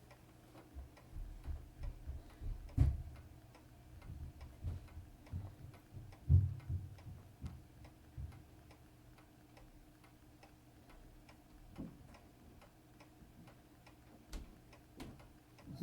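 Ticking of a Seiko 7548 quartz movement on a watch timing machine while it is regulated. Low knocks and bumps from handling the watch come through in the first half and again near the end.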